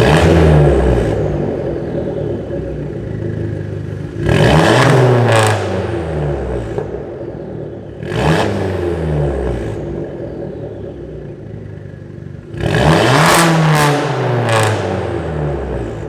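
Abarth 500's turbocharged 1.4 four-cylinder, decatted and straight-piped through a Bombardone exhaust, revved hard four times. Each time the pitch jumps up and then slowly falls back.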